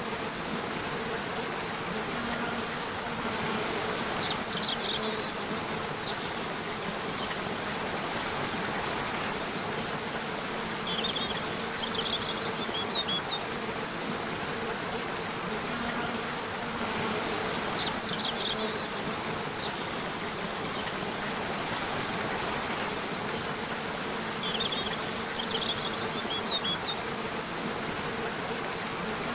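Nature soundscape: a steady buzz of insects over a constant hiss. Short clusters of high chirps recur about every seven seconds.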